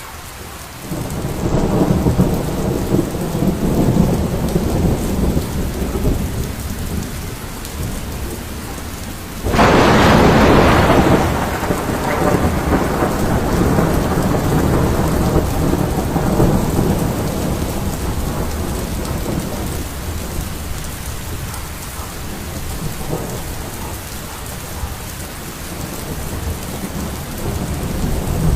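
Heavy rain falling steadily during a thunderstorm, with low rolling thunder. A loud thunderclap breaks out about ten seconds in and rumbles away over a few seconds.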